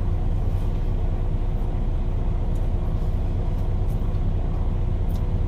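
Steady low rumble of an idling semi-truck diesel engine, even and unchanging, with a faint steady hum over it.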